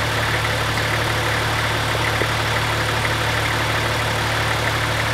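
4WD engine running steadily at low revs, a steady low drone heard from inside the cabin of the vehicle as it creeps along the track.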